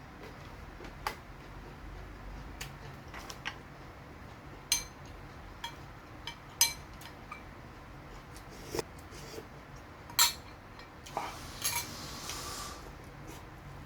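Eating utensils clicking and clinking against a plate, in scattered single taps. The sharpest tap comes about ten seconds in, and a short noisy stretch follows near the end.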